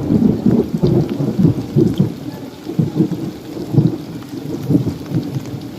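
Heavy rain falling with low, rumbling thunder, in uneven surges that ease slightly toward the end.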